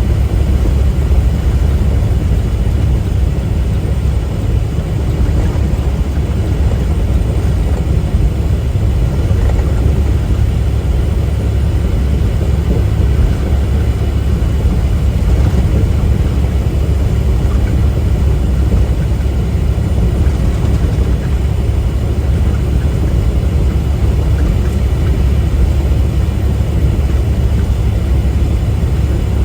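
Semi-truck driving at a steady speed: a constant low rumble of engine and road noise heard from inside the cab.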